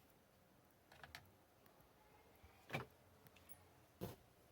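A few faint, sharp plastic clicks and light knocks from hands working on the steering column while taking out the airbag clock spring, with two louder clicks near the third and fourth seconds.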